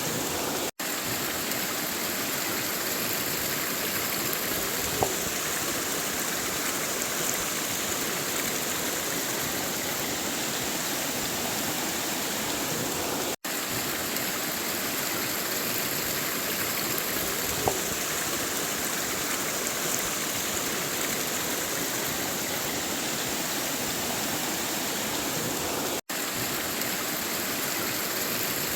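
River water running steadily over rocks, an even rushing with now and then a faint splash. The sound cuts out for an instant three times.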